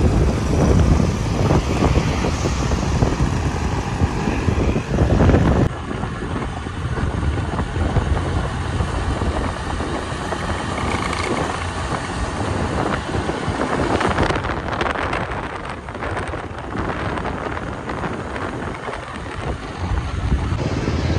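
Motorcycle running on the road while riding, with wind buffeting the microphone.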